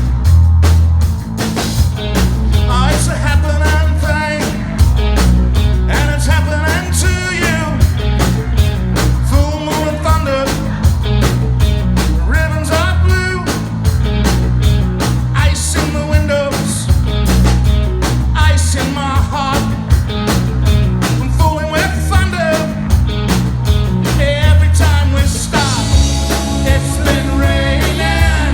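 Rock band playing a song: a steady drum beat, heavy bass and a singing voice.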